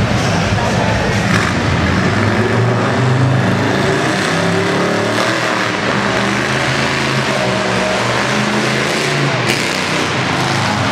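Off-road tuff truck's engine running hard under load, its pitch rising and falling as it is revved.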